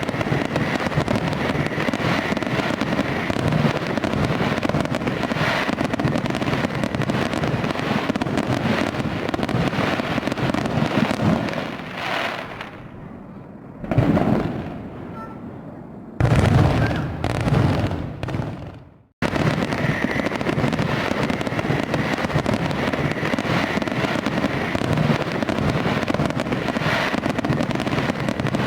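Fireworks display: a dense, continuous barrage of bangs and crackle. About halfway through it thins to a lull with two single booms that fade away. The full barrage then cuts back in abruptly.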